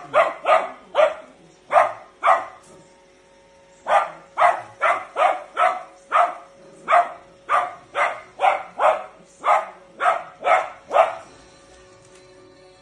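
A small Shiranian dog barking repeatedly at a Roomba robot vacuum, in sharp barks at about two a second. There is a short break a couple of seconds in, then a longer run of barks that stops near the end. A faint steady hum runs underneath.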